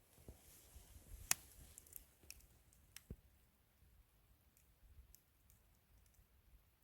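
Near silence broken by a few scattered sharp clicks, the loudest about a second in and another about three seconds in.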